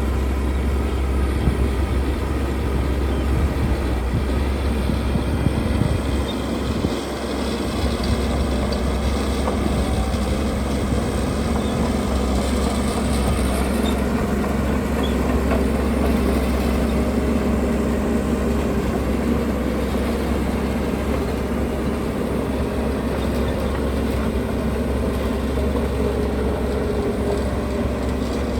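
Diesel engines of heavy earthmoving machinery (bulldozer and dump trucks) running steadily under load, with a low drone and a brief drop in level about seven seconds in.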